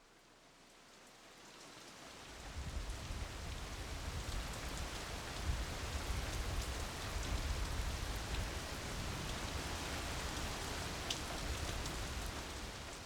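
Steady rushing noise of rain, with a low rumble joining about two seconds in and a few faint ticks. It fades in at the start and fades out near the end.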